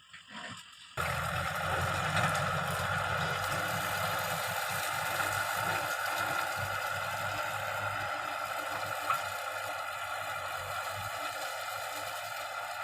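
Kubota M6040 tractor's diesel engine running steadily, coming in abruptly about a second in with a constant pitch.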